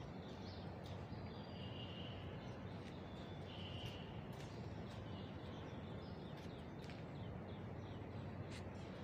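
Steady outdoor background noise with small birds chirping now and then, including a couple of short high whistled notes in the first half.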